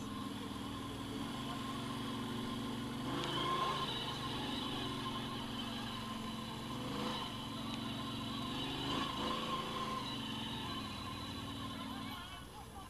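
An off-road vehicle engine runs steadily, its pitch rising and falling as the throttle changes about three, seven and nine seconds in, then fades near the end.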